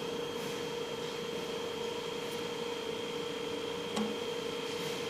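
Steady background hum with a faint high whine and a single light click about four seconds in.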